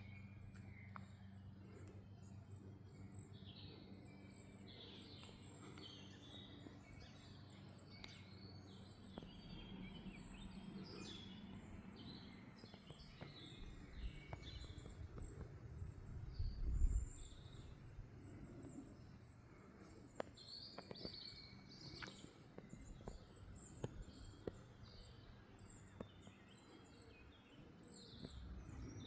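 Quiet outdoor ambience: birds chirping and calling at scattered moments over a steady low hum, with a fast row of short, evenly spaced high ticks running through. A single dull low thump comes about seventeen seconds in.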